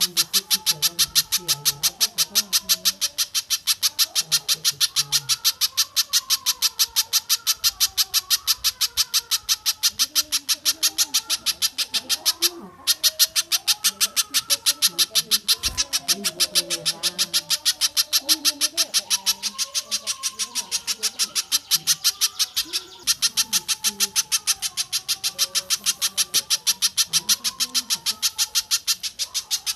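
Looped bird-call training recording: a fast, even train of sharp, high-pitched call notes, several a second, broken twice by a brief gap about 13 and 23 seconds in.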